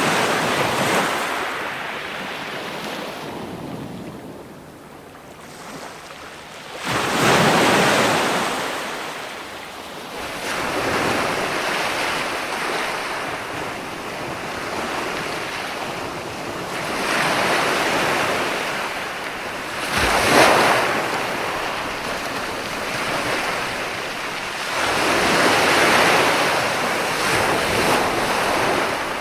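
Ocean waves breaking and washing on the shore, swelling and fading about every five or six seconds, with one sharper crash about two-thirds of the way through.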